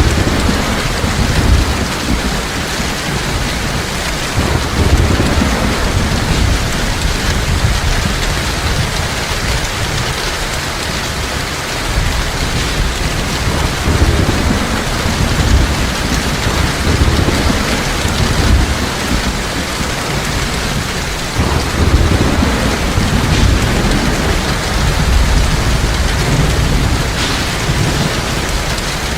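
Heavy rain falling steadily, with low rolls of thunder rumbling again and again underneath.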